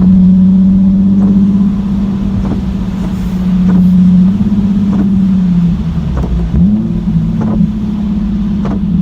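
Nissan 370Z's V6 with the muffler deleted, droning loudly at a steady cruise as heard from inside the cabin. About six seconds in, the engine note wavers and dips as the revs change, and a few short pops stand out every second or so.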